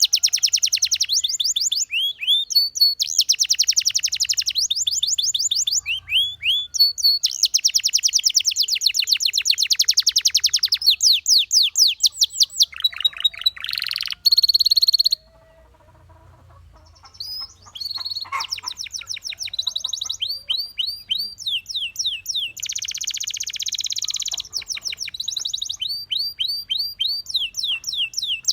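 Domestic canary singing: long, fast trills of rapidly repeated high notes alternating with rising whistled phrases, broken by a pause of about two seconds a little past halfway.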